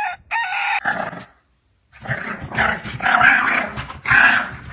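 A dog growling in a run of rough, noisy bursts, each about half a second long.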